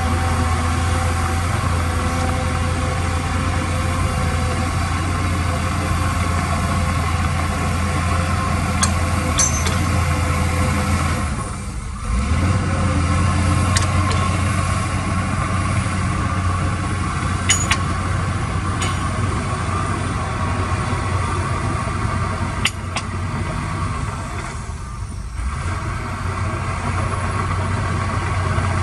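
Heavy machinery engine running steadily, with two brief dips in level, about twelve seconds in and again near twenty-five seconds, and a few faint clicks.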